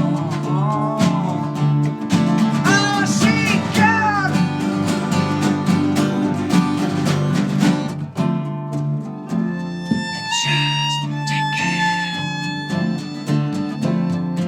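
A band playing live, an instrumental passage without singing: guitars under a lead melody line. The lead slides between notes in the first few seconds and holds long, steady notes toward the end.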